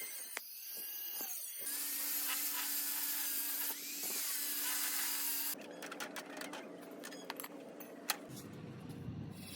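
Metalworking machinery running with a steady hum, dropping to a lower hum about halfway through with scattered ticks and clicks.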